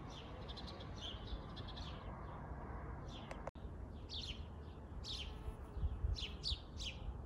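Small songbirds chirping: a run of short, high chirps that come more thickly in the second half, over a low steady background rumble.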